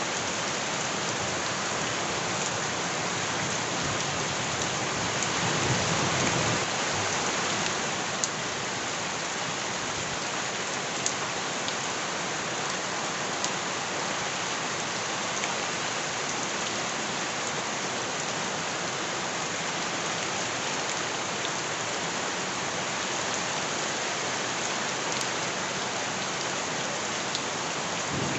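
Steady heavy rain falling on surfaces, with a few sharp single drop ticks. A low rumble swells briefly about five to seven seconds in.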